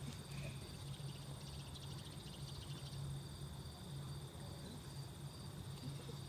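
Insects trilling steadily at a high pitch in a fast, even pulse, over a low steady hum.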